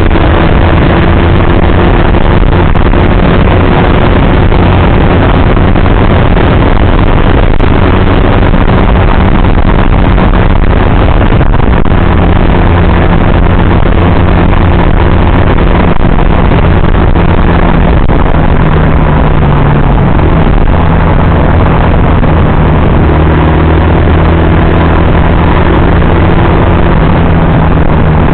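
Motorcycle engine running at a steady cruising speed, its pitch rising and falling only slightly, under loud wind and road noise on the onboard microphone.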